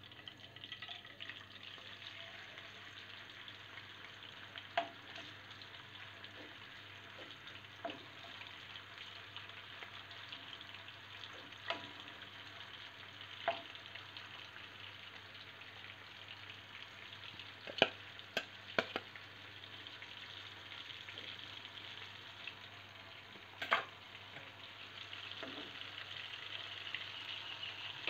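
Marinated prawns shallow-frying in hot oil with curry leaves in a kadai: a steady sizzle, broken by a few sharp clicks and pops. The sizzle grows louder near the end.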